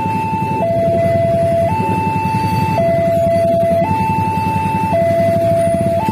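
Electronic two-tone warning alarm of a railway level crossing, switching between a higher and a lower tone about once a second, over a steady low rumble.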